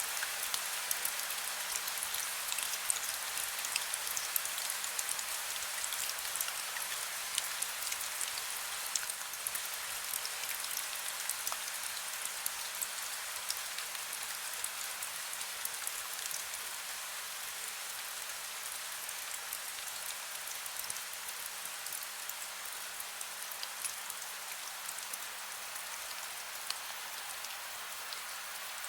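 Heavy rain falling steadily, a dense hiss of drops with many distinct sharp drop hits, easing very slightly toward the end. No thunder.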